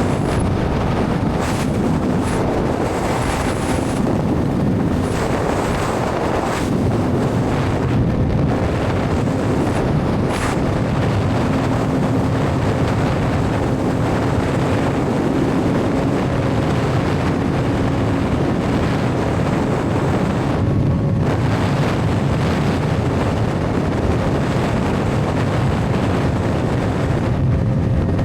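Steady wind rush buffeting a helmet-mounted microphone at riding speed, with a Suzuki GSX-R750's inline-four engine running at a steady cruise underneath.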